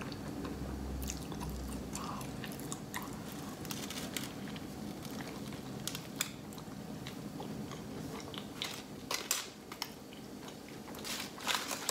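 Close mouth sounds of a person biting into and chewing a burrito, with soft wet clicks throughout. A few sharper clicks come near the end, all over a low steady hum.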